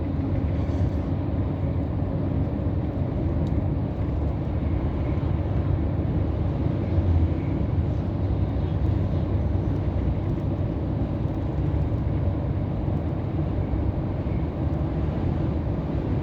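Scania R500 truck cruising on the highway: a steady low engine and road rumble, heard from inside the cab.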